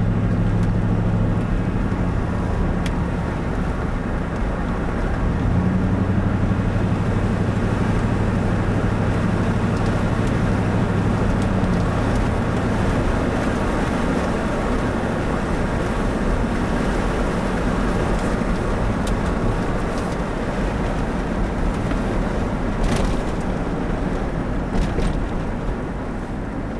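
Chevrolet Tahoe driving, with a steady engine drone and road noise. The engine note shifts in pitch a couple of times early on and fades out after about twelve seconds, leaving steady tyre and road noise.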